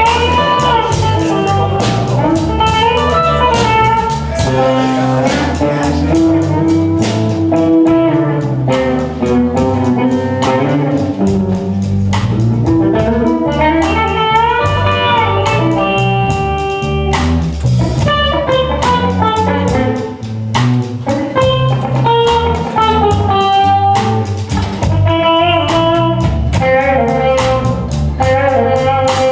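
Live blues-rock band playing: a guitar lead line with bending notes over bass and drums.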